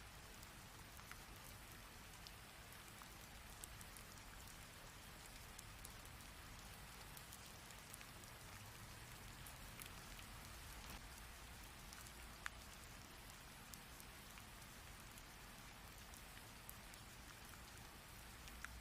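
Heavy rain falling steadily, a soft even hiss with scattered single drops ticking through it. One sharper drop strike comes about two-thirds of the way in.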